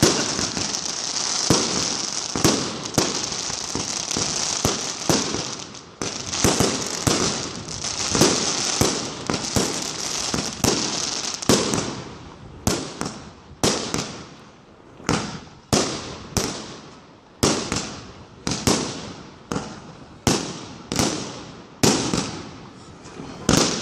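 Aerial fireworks. For about the first twelve seconds there is dense crackling glitter mixed with bangs. After that, single shells burst one after another, roughly once a second, each bang dying away quickly.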